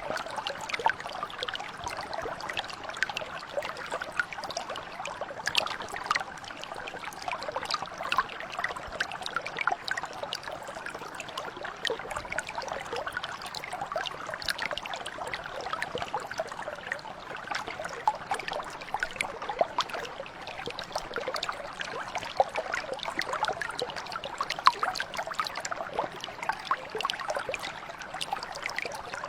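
Mountain brook water flowing and trickling over stones, a steady burble with many small splashes.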